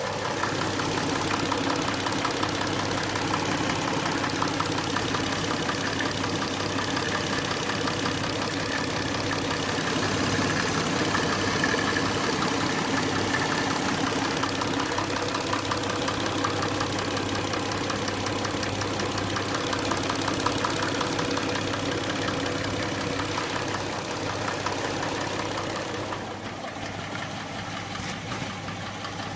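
Hyundai Tucson engine running steadily at idle with a rapid, even ticking knock from the valvetrain, which the owner puts down to the hydraulic lifters. About four seconds before the end the sound turns slightly quieter and duller.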